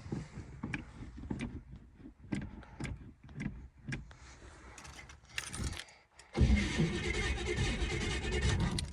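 Keys jangling and small clicks, then, about six seconds in, the old car's starter suddenly turning over the cold engine for about two and a half seconds before it stops.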